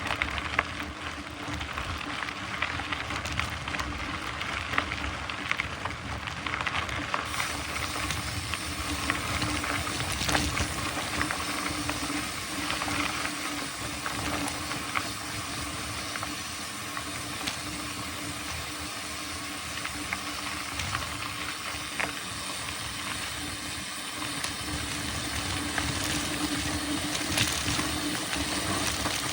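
Mountain bike rolling along a dry dirt trail: a steady hiss of tyres and wind, with frequent small knocks and rattles from the bike going over bumps.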